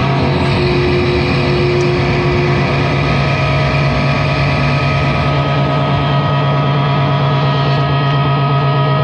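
A live noise band's amplifiers holding a loud, droning wall of noise: a steady low hum with several sustained feedback tones over dense hiss, and no beat.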